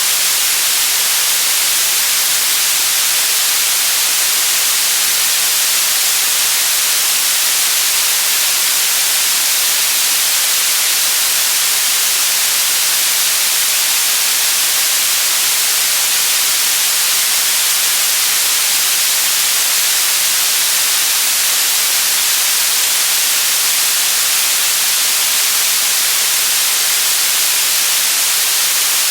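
Continuous white noise: a steady, unchanging hiss with most of its energy in the high frequencies.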